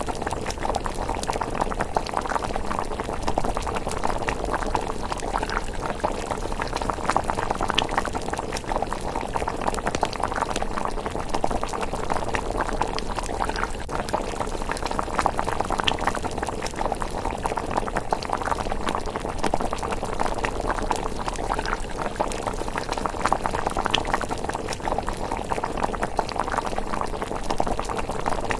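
Thick miso rice porridge bubbling steadily in a pot at a simmer, with a few sharp crackles from the wood fire beneath it.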